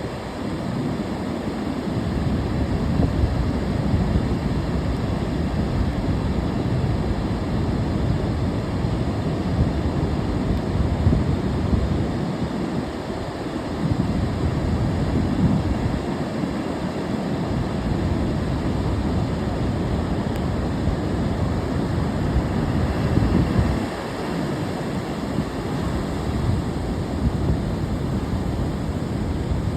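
Ocean surf washing steadily onto the shore, with low wind rumble on the microphone.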